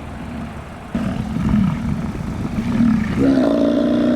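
Bison making low growling grunts, then a longer, louder drawn-out bellow starting about three seconds in.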